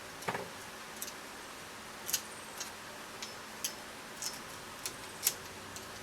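Light metallic clicks and ticks, irregularly spaced, as the oil-seal retaining circlip is worked into its groove in a motorcycle fork slider, with one duller knock about a third of a second in; the loudest click comes near the end.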